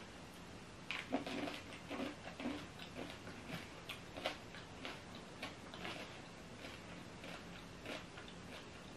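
Close-up chewing of candy-coated chocolates (M&M's): a string of short, irregular crunches and mouth clicks that thin out near the end.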